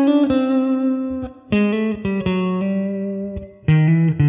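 Guitar playing a short jazz improvisation built on pentatonic scales, with a note taken from inside the scale. It comes in three phrases, each a struck chord with a held low note and a few melody notes over it, starting again about a second and a half in and near the end.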